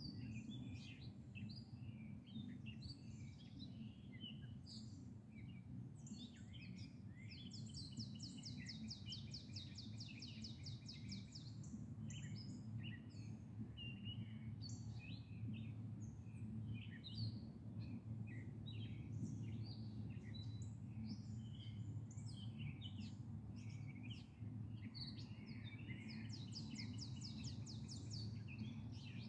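Several songbirds chirping in the trees, with a long, fast trill of rapidly repeated high notes twice, about 7 seconds in and again near the end, over a faint steady low rumble.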